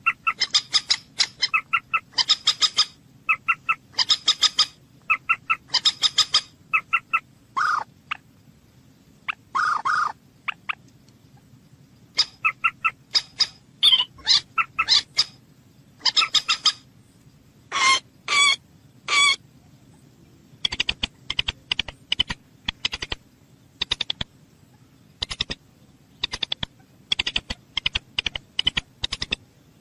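A bird calling over and over in short, sharp notes, often strung together in quick series, with a few longer drawn-out notes around eight, ten and eighteen seconds in.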